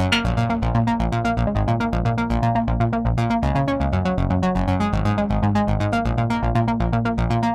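Electronic music played on the Cherry Audio Ensoniq ESQ-1 software synthesizer: a fast, even run of short sequenced notes over a steady bass line.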